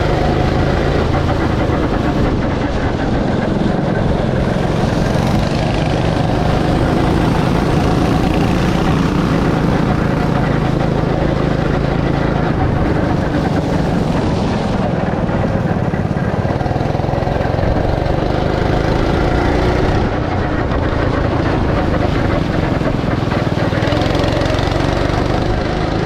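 Go-kart engine running, heard onboard. Its pitch slowly rises and falls with the throttle.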